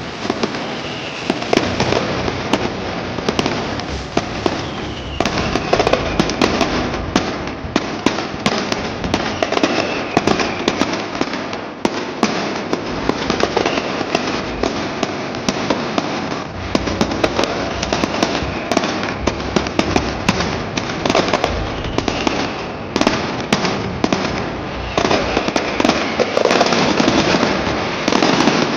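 Fireworks and firecracker bangers going off in a continuous barrage: rapid, loud bangs and crackling packed closely together.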